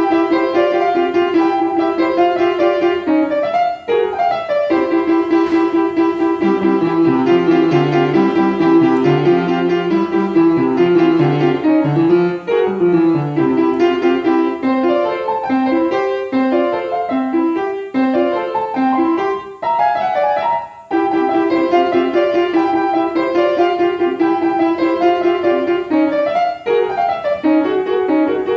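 Piano music: a lively tune built on quickly repeated notes, with a lower line of notes moving underneath for several seconds in the middle.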